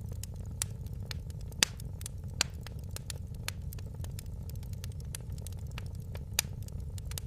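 Fireplace fire crackling: a steady low rumble under a scatter of small sharp pops, with a few louder snaps, the loudest about a second and a half in.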